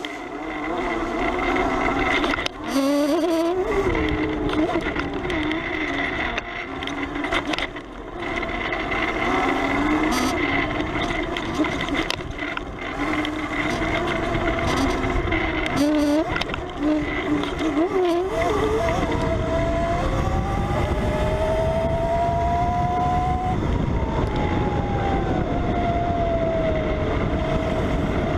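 Electric dirt bike's QS 138 motor whining as it is ridden off-road, the pitch climbing and dropping with each burst of throttle and a long steady rise and fall in the second half. Under the whine the drive chain rattles over a noisy chain roller.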